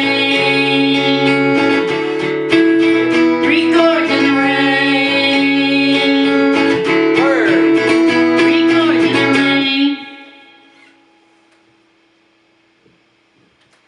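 Guitar strumming a short repeated chord progression, stopping about ten seconds in and ringing out to quiet.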